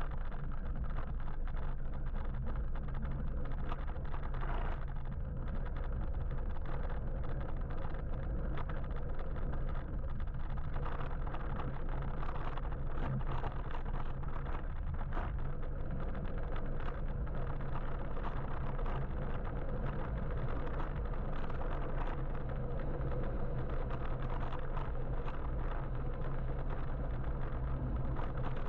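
Steady riding noise from a moving electric motorbike: a continuous low rumble of wind and road noise, with traffic around it and small scattered ticks and rattles throughout.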